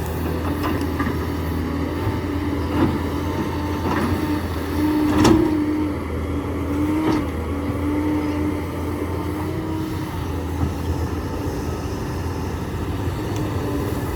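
Diesel engine of a hydraulic excavator running steadily, its pitch swelling briefly several times as the hydraulics take load. Several sharp knocks from the digging in limestone; the loudest comes about five seconds in.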